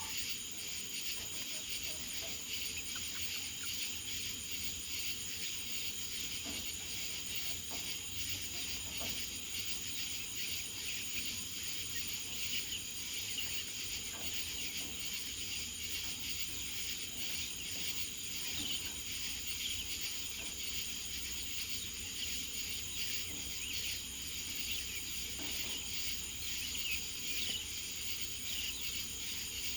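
A steady chorus of insects chirring, a continuous high-pitched trill with a few faint ticks scattered through it.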